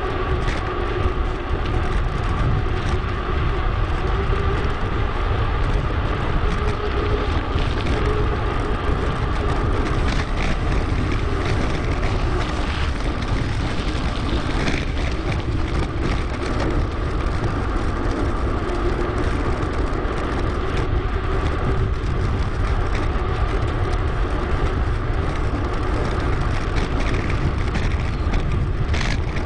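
Steady wind rush on the microphone and tyre rolling noise from a mountain bike being ridden, with scattered small rattles.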